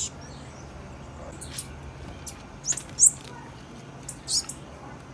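Female blue-black grassquit (tiziu) giving short, high chip calls, about eight scattered irregularly, the loudest about three seconds in.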